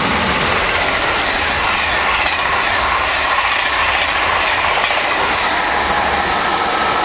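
High-speed passenger train passing close by at speed: a loud, steady rush of wheel and air noise with a few faint steady high tones over it.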